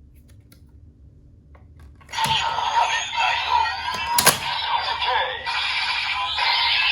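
A CSM Decadriver ver.2 toy belt playing its Decade sound effects through its speaker. A few faint clicks come first, then about two seconds in a loud burst of sweeping electronic effects with two sharp cracks, which settles into a steady sustained tone near the end.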